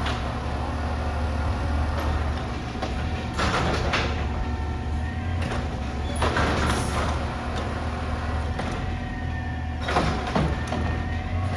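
Garbage truck's diesel engine running steadily with a constant whine over it, and three short bursts of hiss about a third of the way in, past the middle and near the end.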